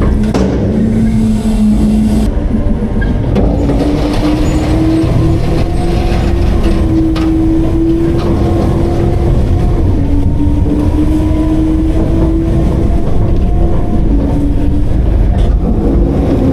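Autocar-Heil Freedom front-load garbage truck running its diesel engine and packer hydraulics while compacting garbage, a steady hum that steps up in pitch about two seconds in as the engine revs for the hydraulics, dipping briefly midway.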